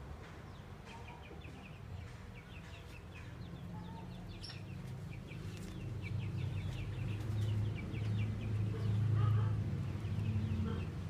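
Birds chirping faintly in quick, repeated short calls, over a low rumble that swells louder in the second half.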